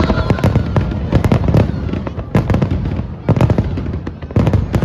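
Aerial fireworks bursting in quick succession: sharp bangs in clusters with low rumbling booms between them, and brief pauses before the next volley.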